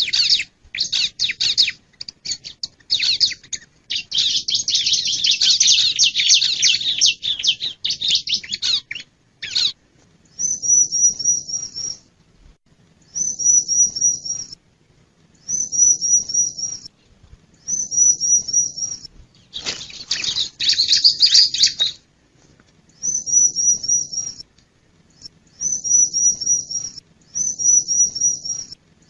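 Bar-winged prinia (ciblek) singing. A fast, dense chattering runs for about the first ten seconds and returns briefly about twenty seconds in. In between, and again near the end, come short high phrases of four or five quick trilled notes, repeated every two to three seconds.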